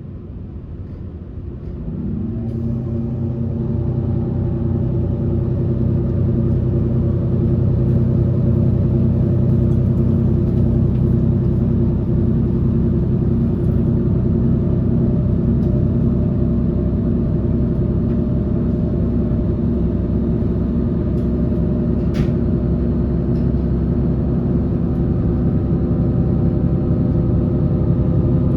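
Electric train's traction motors humming in several steady tones, over the low rumble of wheels on the rails. The tones come in about two seconds in and the sound swells louder over the next couple of seconds, then holds steady while the train runs. A brief high squeak about twenty-two seconds in.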